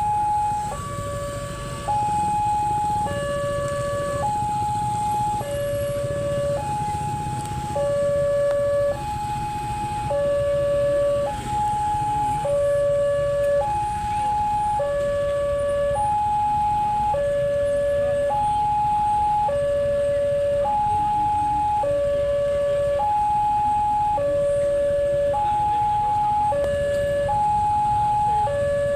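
Railway level crossing alarm sounding to warn of an approaching train: an electronic two-tone signal alternating steadily between a high and a low note, about one high-low cycle every two seconds, over a low rumble.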